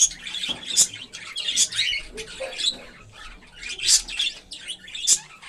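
Cockatiels calling in their cage: short, harsh chirps and squawks about once a second.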